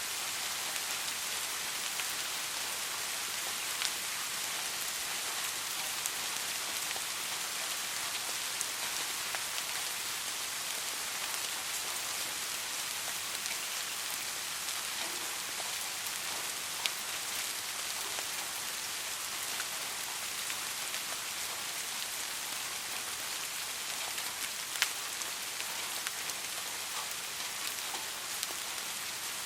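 Soft, steady rain falling as an even hiss, with a louder single drop ticking now and then, about three times.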